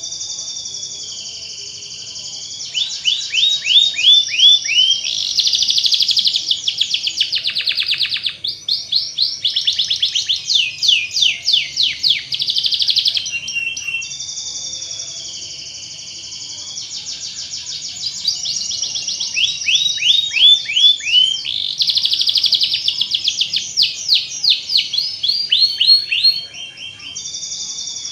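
Domestic canary singing a long, fast song of trills and sweeping whistled notes. The same sequence of phrases repeats about every 14 seconds, as a looped recording.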